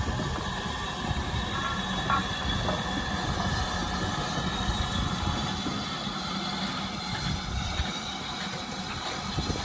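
A train running on rails, heard as a steady rumble with no distinct beats.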